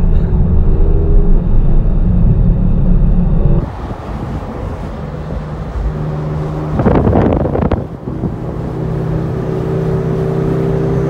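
Porsche 911 Targa 4S twin-turbo flat-six heard from inside the cabin at speed on a race track, with heavy engine and road noise. The engine then settles into a steady drone, broken by a brief loud rush of noise about seven seconds in. After that the engine pulls again, its pitch rising slowly.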